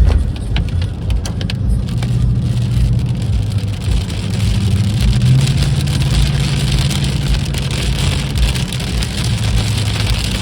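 Truck driving along a road: a steady engine drone that rises a little in pitch about halfway through, over tyre and road noise with some crackle.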